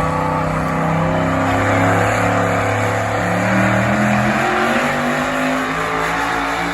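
A big truck engine running loud and steady, revving up about three seconds in and settling to a lower pitch near the end.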